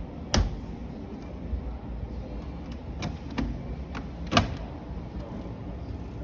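Several sharp knocks over a steady low hum, the loudest about half a second in and again at about four and a half seconds.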